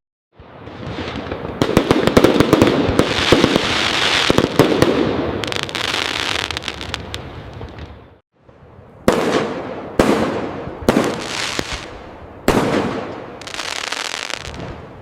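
Fireworks display: a long run of dense crackling, then four sharp aerial bursts about a second apart, each trailing off in crackle. The sound cuts to silence briefly near the start and again midway.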